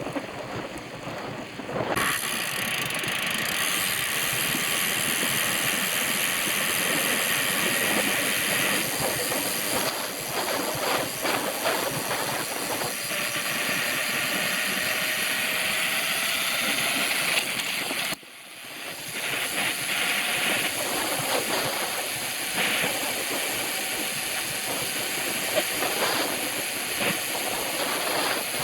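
Steady rushing wind noise on the microphone while riding, dropping out abruptly about two-thirds of the way through and quickly building back up.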